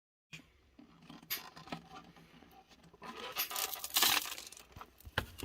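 Irregular handling noises: clicks, knocks and scraping or rustling, loudest about four seconds in.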